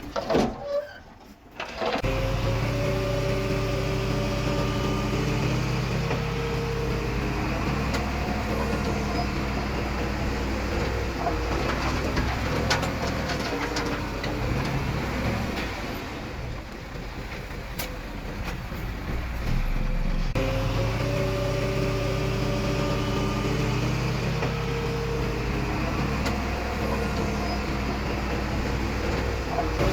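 Diesel engine of heavy earthmoving machinery running steadily, its pitch shifting a little under changing load. The sound drops out sharply for about a second near the start.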